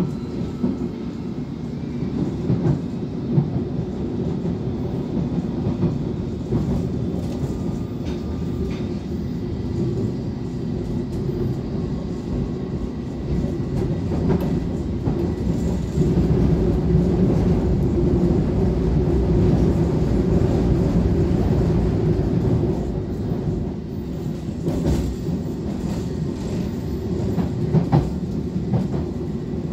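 London Underground District Line train running, heard from inside the carriage: a steady low rumble of wheels on rails with occasional sharp clicks and knocks. It grows louder for several seconds in the middle.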